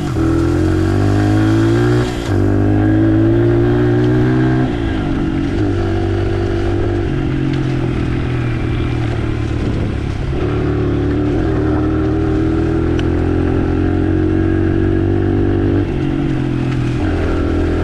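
Dirt bike engine running under way on a trail. Its note climbs and then drops sharply every few seconds as the rider works the throttle and gears.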